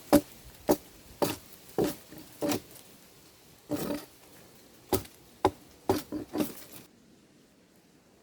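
A series of dull, sharp thuds, about two a second with a couple of short pauses, stopping about a second before the end.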